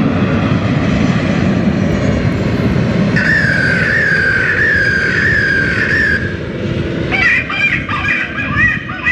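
Jet airliner engines rumbling as the Airbus A330 comes in to land, fading after about seven seconds. A warbling electronic call from a bird repeller sounds over it about three seconds in, and from about seven seconds on several warbling calls repeat.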